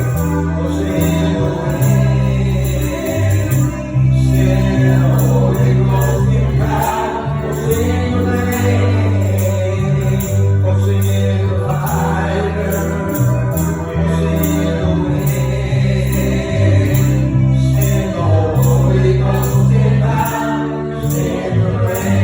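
Gospel praise team singing together over a band, with a strong bass line and a steady beat.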